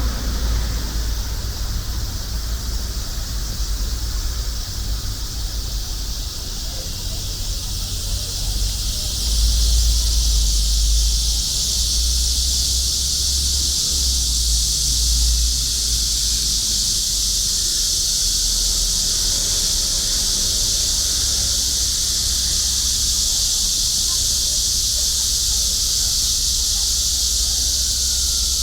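Chorus of cicadas buzzing steadily in a high, dense hiss, which swells about nine seconds in and then holds, over a low rumble.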